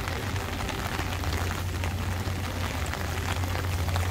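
Steady heavy rain falling on wet paving and stone steps, with scattered sharp drop hits, growing slightly louder toward the end. A steady low hum runs underneath.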